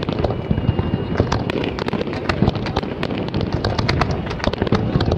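Fireworks going off in rapid succession: a dense, irregular stream of sharp pops and crackles over a steady low rumble.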